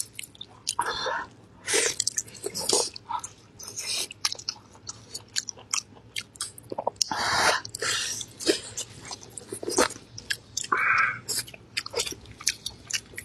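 Close-miked wet chewing, biting and lip-smacking of braised beef ribs by two people, in short irregular smacks and clicks.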